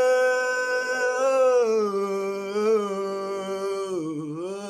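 A solo voice singing a long, sustained note, held steady at first, then stepping down to a lower pitch about a second and a half in, with a brief dip and rise in pitch near the end.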